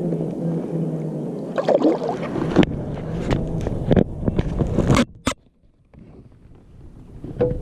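A string of knocks, clicks and scrapes from gear being handled in a kayak, over a low steady hum. The sound drops away almost to nothing for a second or two after the last sharp knocks.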